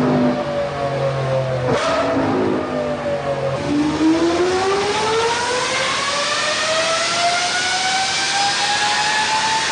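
Lamborghini Revuelto's V12 engine running hard on a dyno. Its note sinks slightly in pitch with a brief break about two seconds in, then climbs steadily in pitch for about six seconds as it revs up through a long pull.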